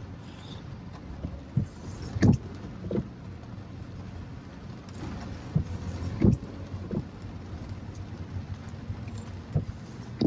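A car running steadily, with a low hum and road noise, and a few short low thumps at irregular moments.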